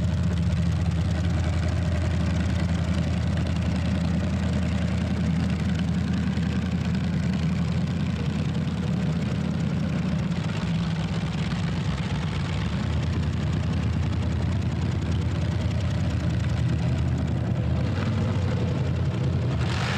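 Tractor-pull tractor's engine running at a steady, even pitch, with no revving up or down.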